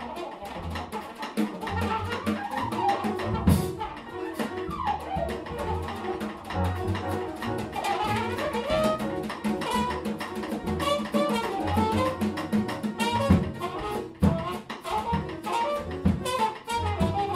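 Big band jazz ensemble playing an improvised passage: saxophones and brass with guitar over double bass and a busy drum part.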